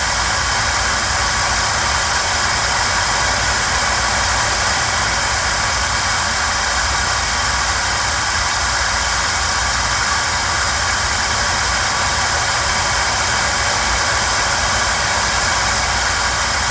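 Winchef Saturn Air WTH-S1 hair dryer running at its lowest fan speed in its alternating cool/hot cycle mode: a steady rush of blown air with an even motor whir.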